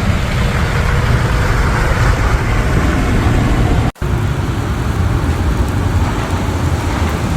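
Steady road traffic noise, a low rumble of passing vehicles, broken by a brief sudden cut about four seconds in.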